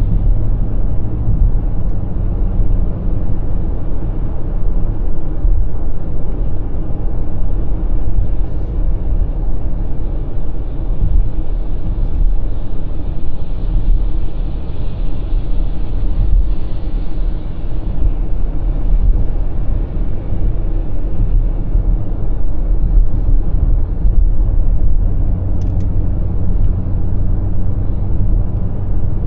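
Steady low rumble of a BMW X5 M50i, with its twin-turbo V8, cruising at highway speed: engine, tyre and road noise running evenly without a break.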